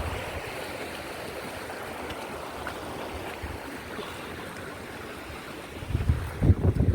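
Steady rushing of a flowing stream. About six seconds in, wind starts buffeting the microphone with low gusts.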